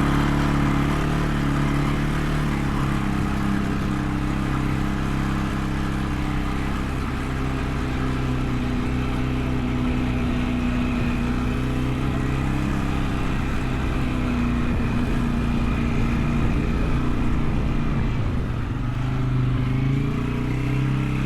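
A motor vehicle's engine running steadily, its pitch easing and rising a little now and then.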